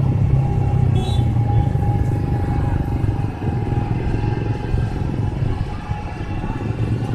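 A vehicle engine running steadily, its sound mostly low, with a thin steady whine above it.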